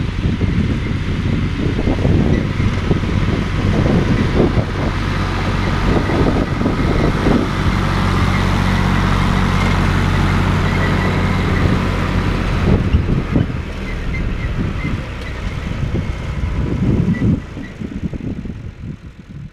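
John Deere 1030 tractor's three-cylinder diesel engine running steadily under a faint steady high whine; the sound fades out near the end.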